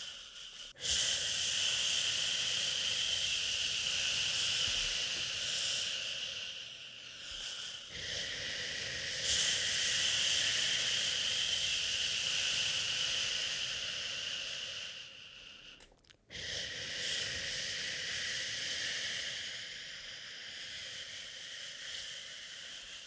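A person shushing to soothe a baby: long, drawn-out "shhh" sounds, each lasting about seven or eight seconds, broken by short breaks for breath about a second in, about eight seconds in, and deepest about sixteen seconds in.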